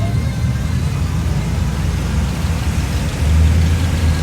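A car engine running with a low, steady rumble that swells louder about three seconds in.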